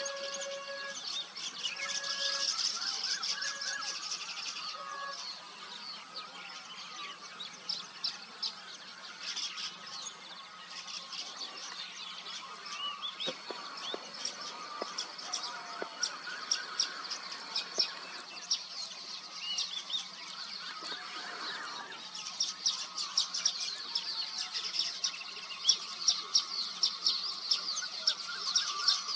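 A colony of weaver birds chattering and chirping at their nests, many birds calling over one another. Short sharp chirps come thicker and faster over the last several seconds.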